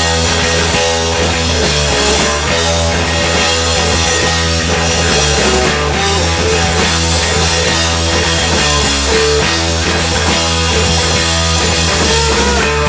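Rock band playing live, an instrumental passage of electric guitar over drums and steady low bass notes.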